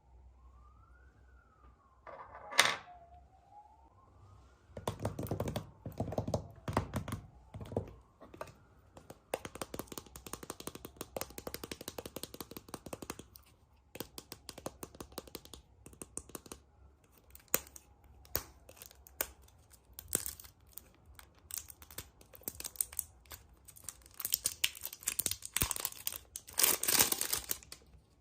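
A faint siren tone wails slowly up and down through the first third. A sharp snap comes a couple of seconds in, then a long run of crackling and clicking, like plastic and foil packaging being handled and torn open. The crackling is densest near the end.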